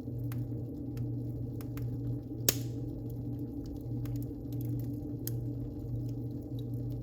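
Wood fire burning in a fireplace: scattered small crackles and one loud pop about two and a half seconds in, over a steady low rumble.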